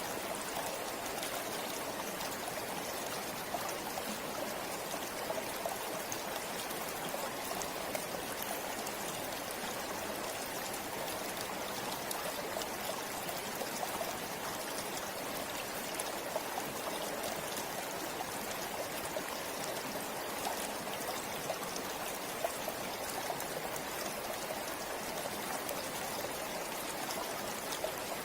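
River water flowing in a steady, even rush, with small splashes and trickles scattered through it.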